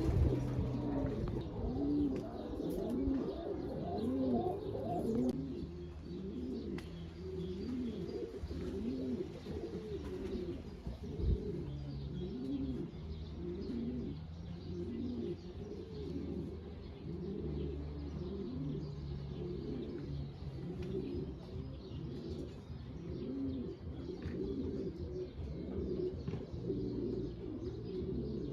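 Racing pigeons cooing, many overlapping coos repeating without a break.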